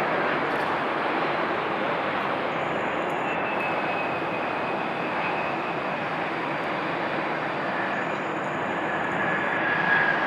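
Embraer E175 jet landing: steady noise from its CF34 turbofan engines, with a faint high turbine whine heard a few seconds in and again near the end.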